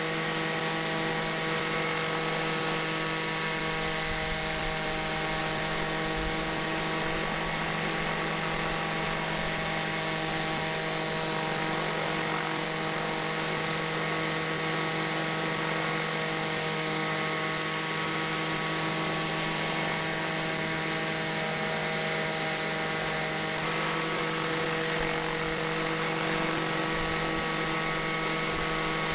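Nitto Wankel gasoline engine of a large RC model helicopter running at a steady speed, with a slight change in pitch about three-quarters of the way through.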